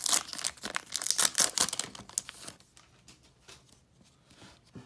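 Baseball-card pack wrapper being torn open and crinkled, busy for the first two and a half seconds, then only a few faint crinkles and clicks.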